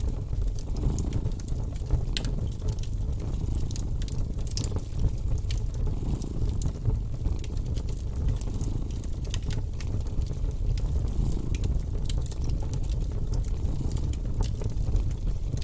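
Wood fire crackling in a fireplace, with frequent irregular sharp pops and snaps over a steady low rumble of a cat purring.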